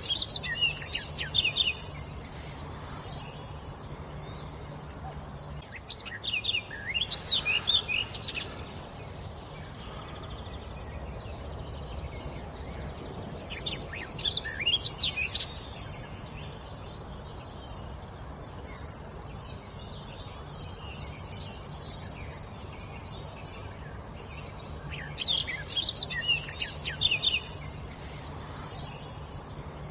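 A wild songbird singing in short bursts of quick, high chirping notes, four phrases spaced several seconds apart, over a steady low background hum.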